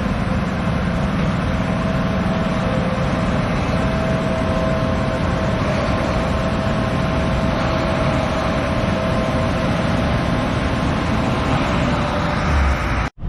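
Tractor diesel engine running steadily, with a steady whine over the engine noise. It cuts off suddenly near the end.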